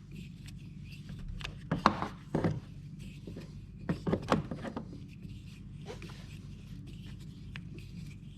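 Scattered light clicks and scrapes of a screwdriver turning and tightening a rusty screw, over a low steady hum.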